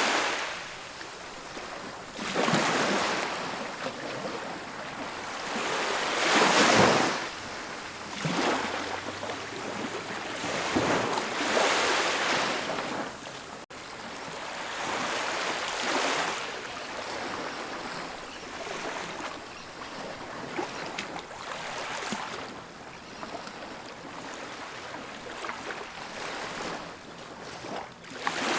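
Ocean waves breaking and washing up a beach, one swell after another every few seconds, the loudest about a quarter of the way in, gentler later.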